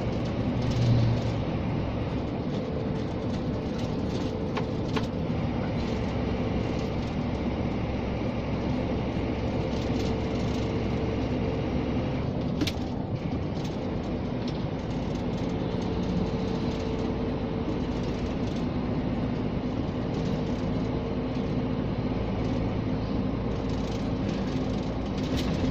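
Scania G460 truck's 13-litre six-cylinder diesel running steadily while driving, heard from inside the cab as an even drone mixed with road noise. A single short click about halfway through.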